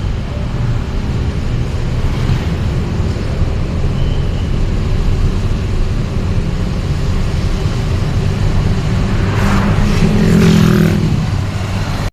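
Road traffic heard from a moving vehicle: steady low engine and road rumble. Near the end, another vehicle passes close by, louder for about a second and a half.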